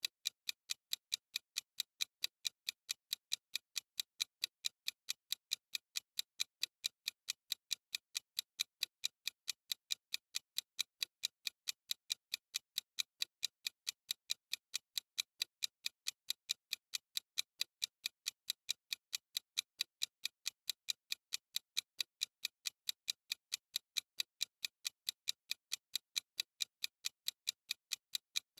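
Ticking clock sound effect of a countdown timer: sharp, crisp ticks, evenly spaced at several a second, steady throughout.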